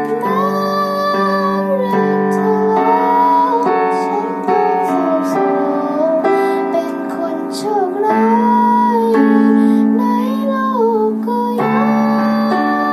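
A female voice singing a melody over piano accompaniment.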